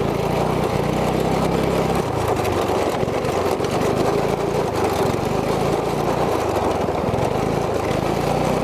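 Single-cylinder 212cc go-kart engine running steadily, its pitch shifting a little as the throttle changes.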